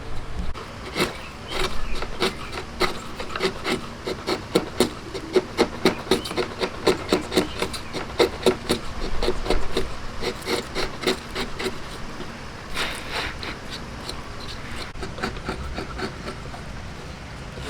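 A hand tool worked back and forth on wood in a steady rhythm of scraping strokes, about two to three a second, louder through the middle and easing off near the end.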